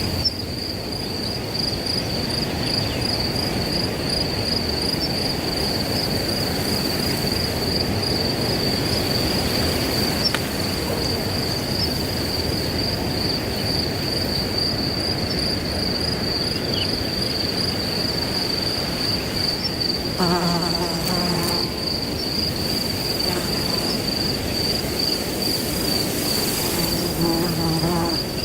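Crickets trilling steadily in a high, continuous pulsing chirr over a steady rush of wind through grass. Twice, about twenty seconds in and again near the end, a short low pitched call or hum rises briefly over it.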